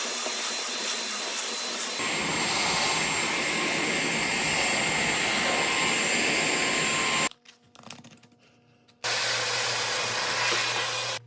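Milwaukee M18BLCV2 cordless vacuum running with a steady rushing whir; about two seconds in it turns louder and fuller, it stops abruptly a little after seven seconds, and starts again about two seconds later.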